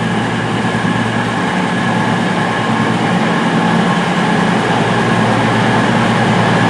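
Class 220 Voyager diesel multiple unit standing at the platform with its underfloor diesel engines idling: a loud, steady low hum.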